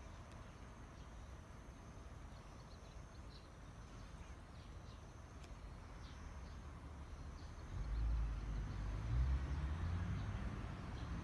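Outdoor ambience with a faint, steady high insect drone and a few small ticks. About eight seconds in, a low engine rumble from a vehicle comes in and becomes the loudest sound.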